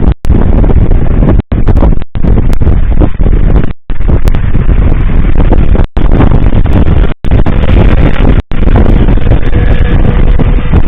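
Fireworks salute bursting, so loud that the bangs overload the microphone into a continuous distorted rumble. The sound cuts out completely for an instant several times.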